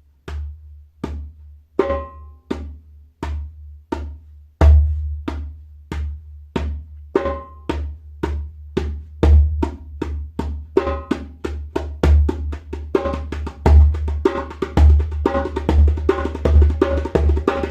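Djembe played with bare hands: one rhythm of bass, medium and high strokes, starting slow and speeding up steadily until the strokes come rapidly near the end.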